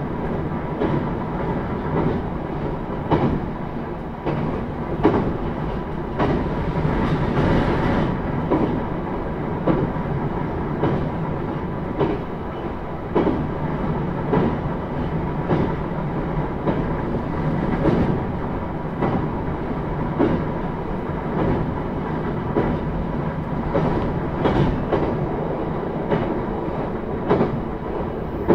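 Onboard running sound inside a JR East E131-0 series electric motor car (KuMoHa E131): a steady rumble of wheels on rail with regular rail-joint clacks roughly once a second, and a faint steady tone running beneath.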